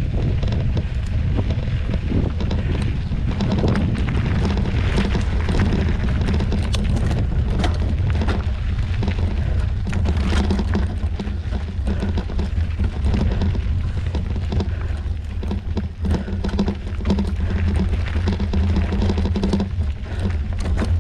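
Wind rumbling on the microphone while riding a mountain bike over a rough rocky trail, with frequent knocks and rattles from the bike jolting over rocks.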